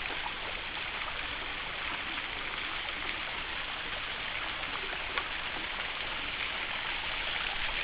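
Steady rush of water from a small, low-flowing waterfall splashing down a rock face, with a faint tap about five seconds in.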